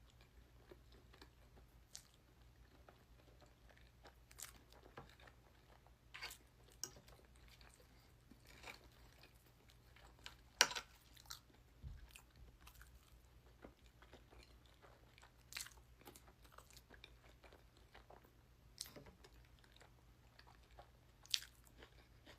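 A person chewing and biting food close to the microphone: scattered wet smacks and crisp crunches, irregularly spaced, the loudest about halfway through and again near the end, over a faint steady hum.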